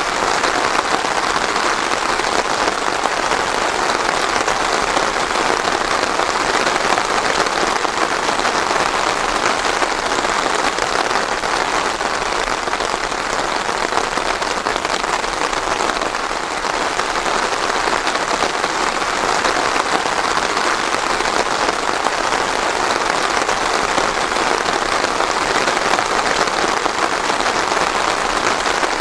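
Steady heavy rain falling, with no thunder.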